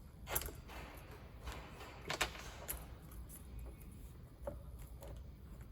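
A few sharp clicks and light knocks of chainsaw parts being handled as the bar and chain are fitted back onto the saw, over a low steady hum.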